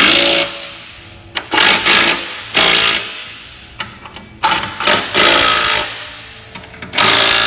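Cordless impact driver running in about six short bursts of under a second each, spinning and hammering nuts down onto carriage bolts.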